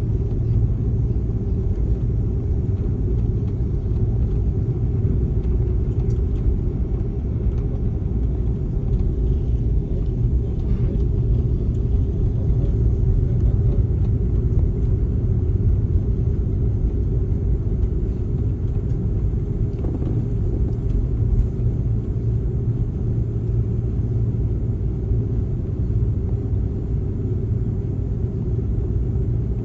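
Steady low rumble of an airliner cabin on the ground before takeoff, with the aircraft's engines and air systems running.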